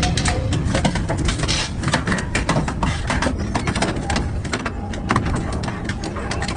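Industrial double-shaft shredder grinding metal: a constant low rumble from the machine, with rapid, irregular cracks and snaps as the metal is torn apart.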